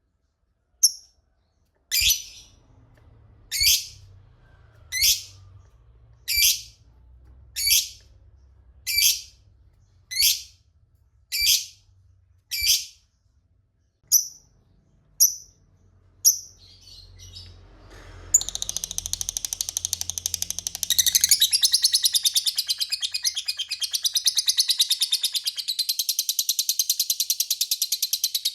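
Lovebird calling: about a dozen sharp, high single calls a little over a second apart. From about 18 s it breaks into a long, rapid, continuous chattering trill, the 'ngekek panjang' long chatter.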